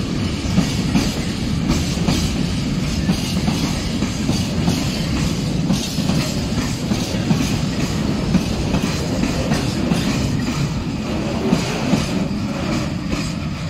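Freight train of open wagons rolling past, its wheels rumbling steadily and clicking over the rail joints.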